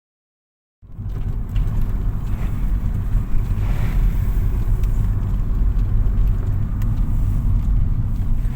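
A car driving, heard from inside the cabin: a steady, loud low rumble of engine and road noise that starts about a second in.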